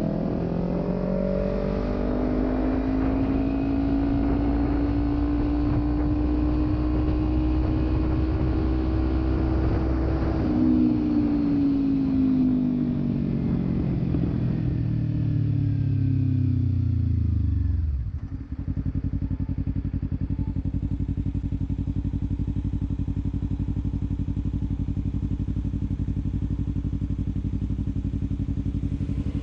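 Kawasaki Ninja 300 parallel-twin engine through a Delkevic aftermarket exhaust: the engine note climbs slowly under load for about ten seconds, then winds down as the rider rolls off. About two-thirds through it drops sharply to a steady idle.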